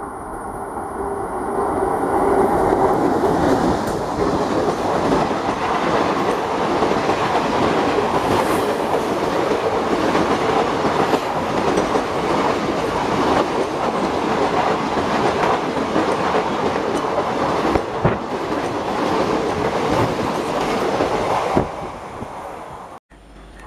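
Express passenger train hauled by an electric locomotive passing close at speed: a steady rush of coach wheels with rapid clickety-clack over the rail joints. It builds over the first couple of seconds and falls away near the end as the last coach goes by.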